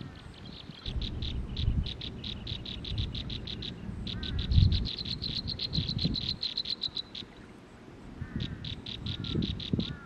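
Small birds at a nest giving a long run of short, high ticking notes, at first about four a second and then faster. The run stops a few seconds before the end and comes back briefly, with a few short downslurred chirps. Uneven low rumbling noise runs underneath.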